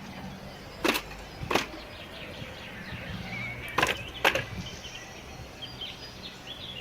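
Four sharp wooden knocks in two pairs, as pieces of wood are struck or knocked together, with birds chirping faintly in the background.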